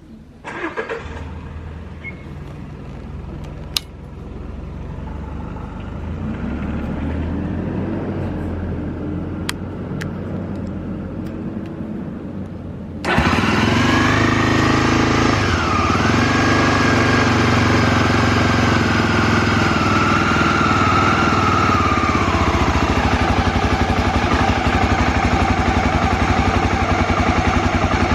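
Honda XL250 Degree's single-cylinder four-stroke engine starting about half a second in and idling. About halfway through it turns abruptly louder and brighter, then settles into slow, even idle pulses. It runs with no abnormal noise, as the seller reports.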